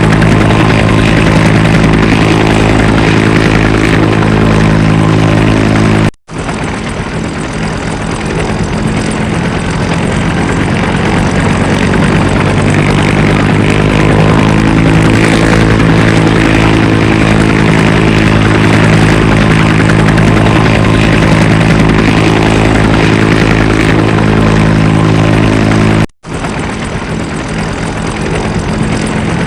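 Helicopter running: a steady low rotor beat under a droning engine hum, cut off abruptly twice (about six seconds in and near the end), with the hum rising in pitch partway through.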